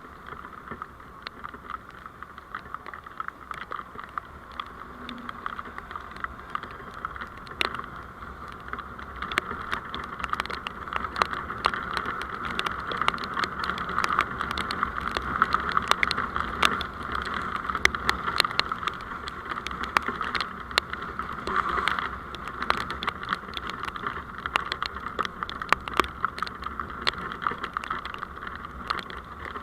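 Running noise of a moving vehicle picked up by a dashcam, a steady rushing hiss dotted with many sharp ticks and clicks. It grows louder a few seconds in and stays louder through the middle.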